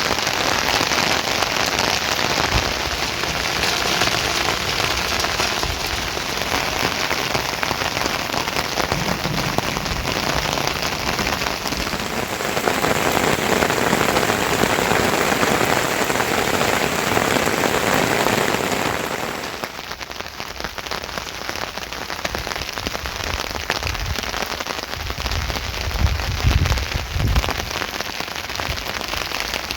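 Heavy rain falling in a steady hiss. It grows fuller about twelve seconds in, then drops quieter at about twenty seconds, and a few low thuds come near the end.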